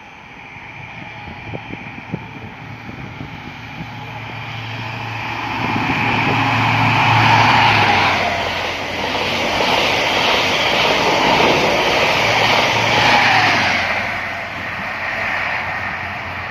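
High-speed express passenger train passing through the station without stopping: a rushing noise of wheels and air that builds over several seconds, stays loud for about eight seconds as the coaches go by, then eases off, with a low steady hum under it and tones that drop in pitch as it passes.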